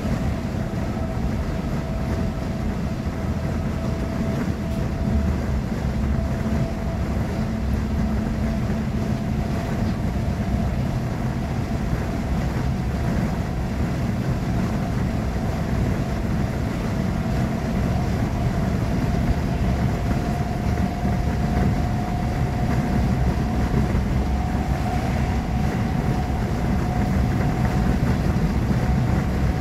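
Interior noise of a moving V2N double-deck passenger coach: a steady low rumble from the running train, with a faint whine that rises slowly in pitch.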